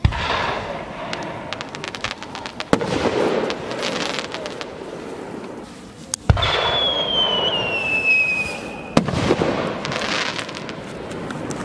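Aerial fireworks: shells bang as they burst, with sharp crackling from glitter stars between the bangs. A little past the middle a whistling shell climbs, its whistle falling in pitch for about two and a half seconds before it bursts with a bang.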